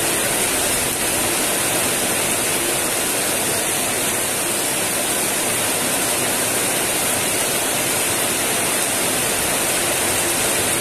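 Heavy rain pouring steadily onto a wet concrete yard and road, a dense, even hiss that does not let up.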